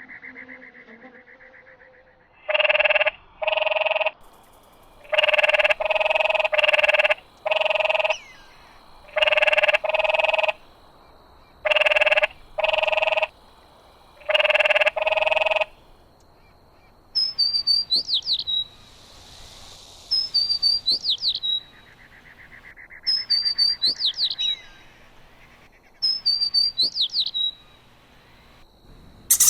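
Animal calls: a run of loud, harsh calls, mostly in pairs, then from about halfway on bursts of rapid, high chirping trills.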